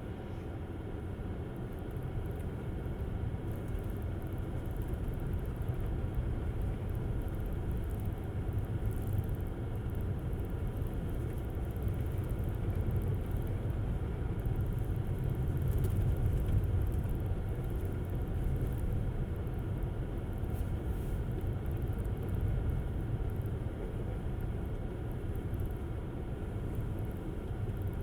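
Steady low road rumble of a Tesla Model S driving on snowy roads. The tyre and road noise swells slightly about two-thirds of the way through.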